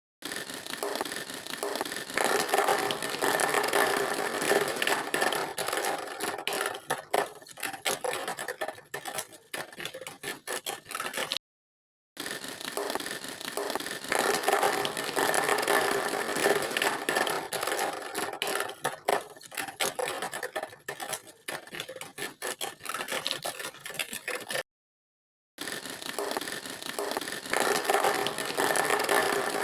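Mechanical scraping and rattling with a few steady whining tones underneath. It comes in three stretches cut apart by two brief total silences, about eleven and twenty-five seconds in.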